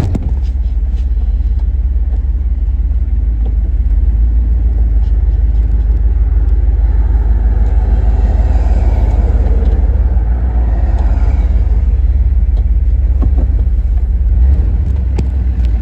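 A 1990 GMC 1500 pickup running and driving, a loud steady low rumble of engine and road noise that swells somewhat around the middle.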